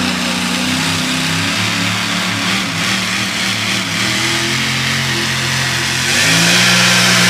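Super modified four-wheel-drive pulling truck's engine running at an uneven lower speed, then revving up and getting louder about six seconds in.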